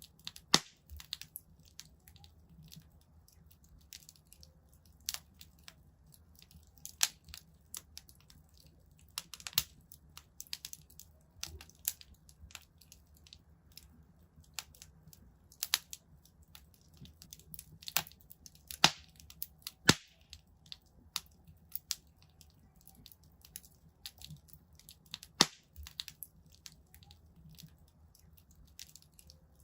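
Wood fire crackling in a fireplace: irregular sharp pops and snaps, a few louder ones, over a faint low steady rumble.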